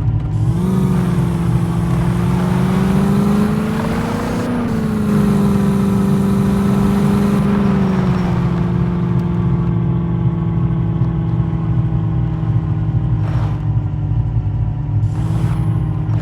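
Landi jeep engine running under load, its pitch rising about four seconds in, holding, then easing back to a steady note.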